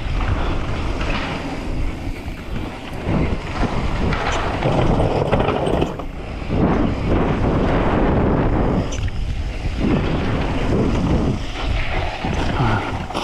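Wind rushing over the microphone as a mountain bike is ridden fast downhill, surging and easing unevenly.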